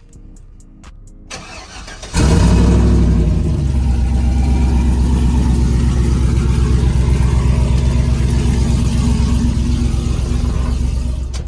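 A vehicle engine cranks and starts about two seconds in. It flares briefly, then settles into a loud, steady idle, and cuts off near the end.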